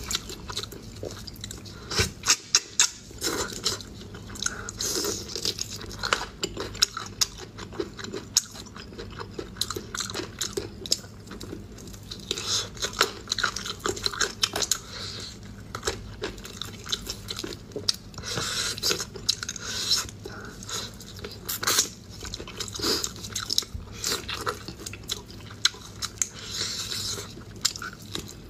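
Close-up eating sounds of a person biting and chewing meat off cooked pork bones: many irregular sharp clicks, crunches and wet chewing.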